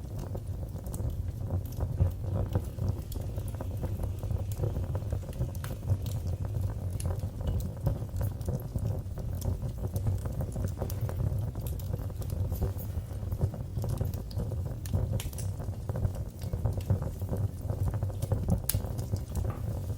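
Wood fire burning in a fireplace, a steady low rumble of flames with frequent sharp crackles and pops scattered throughout.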